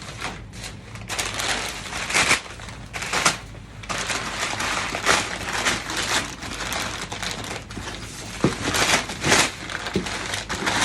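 Packing material being handled as shotguns are unboxed: irregular rustling and crinkling with sharp clicks and knocks throughout.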